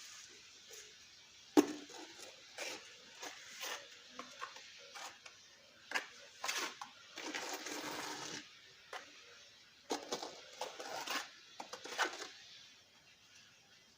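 Scattered knocks and clicks, the loudest about a second and a half in, with short scraping stretches about seven seconds in and again around ten to eleven seconds.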